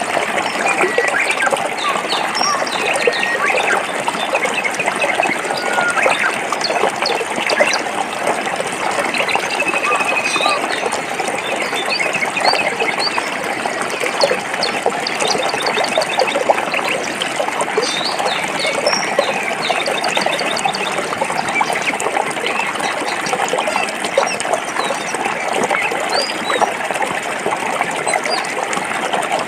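Forest stream running over rocks, a steady rushing and splashing of water, with small birds chirping and trilling on and off throughout.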